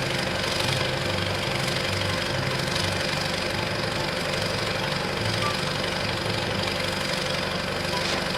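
A vehicle engine running steadily at idle, even and unchanging.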